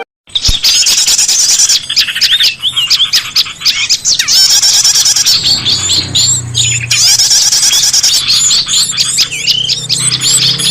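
Dense, overlapping chirping and twittering of many small songbirds, rapid sweeping calls that run on without a break: a pikat lure recording used to call small birds back.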